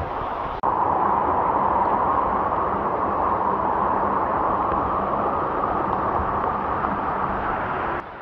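Steady, loud rushing of a waterfall, an even noise without pitch. It cuts in abruptly about half a second in and cuts off just before the end.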